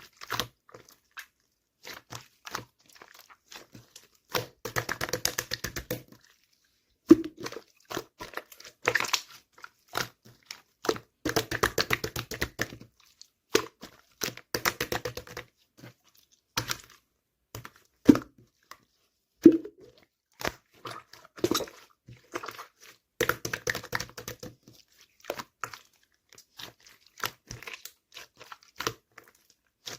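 Close-up handling sounds: runs of crackly rustling, clicks and taps in short bursts, broken by brief silent gaps, with a few sharper single knocks.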